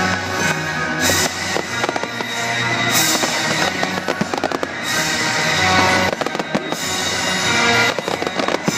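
Fireworks display: many sharp bangs and crackling bursts going off in quick succession, with music playing throughout.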